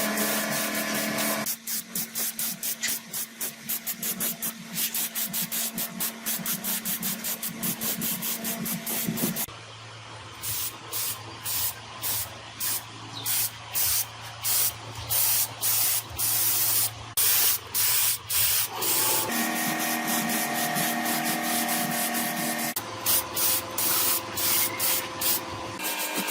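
Metal being sanded or filed by hand in repeated back-and-forth strokes, part of cleaning rust off gearbox parts. The strokes come quickly at first, then slower and louder from about a third of the way in, with a steady hum behind them in some stretches.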